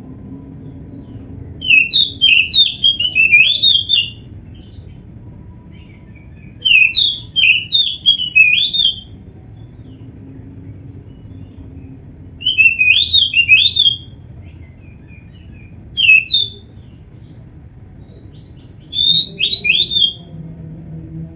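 Oriental magpie-robin (kacer) singing in five short bursts of rapid, high whistled and chattering notes, separated by pauses of a few seconds. A faint, steady low hum runs underneath.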